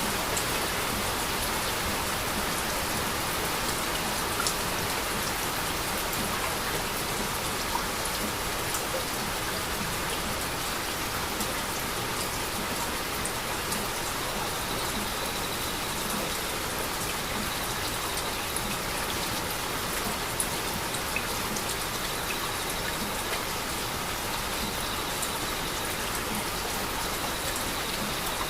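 Steady heavy rain falling, with scattered drops ticking on a surface.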